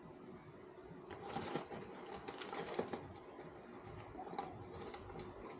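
Faint clicks, taps and scrapes of a tablespoon scooping finely ground pepper from a bag and tapping it off, irregular and loudest a second or two in.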